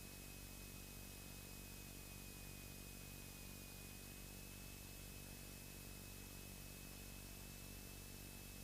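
Near silence: a faint steady static hiss with a thin, steady high-pitched whine, the idle noise of the cockpit radio/intercom audio feed between transmissions.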